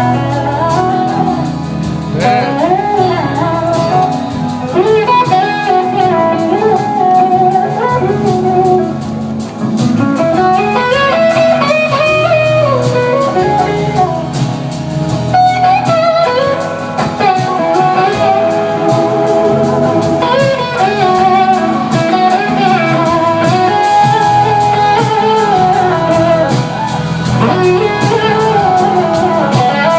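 Electric slide guitar solo in a blues style, the notes gliding up and down between pitches, over a steady low backing.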